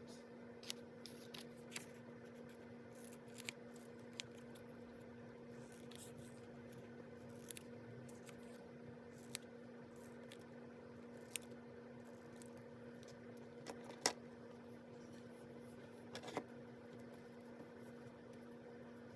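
Faint, scattered snips and clicks of scissors and paper being handled in paper-craft work, over a steady low electrical hum.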